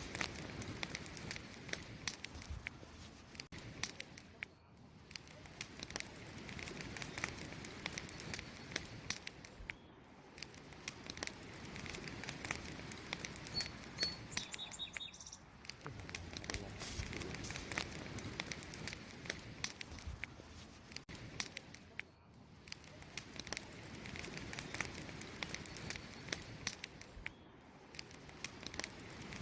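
Wood fire crackling, with dense sharp pops and snaps over a soft hiss of flames. A few short high bird chirps come in about midway.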